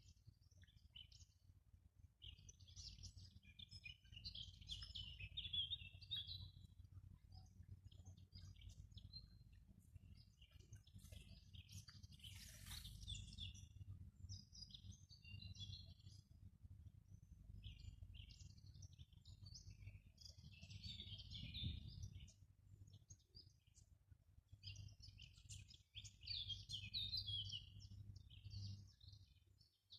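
Forest songbirds singing in bursts of chirping phrases a few seconds apart, over a steady low rumble.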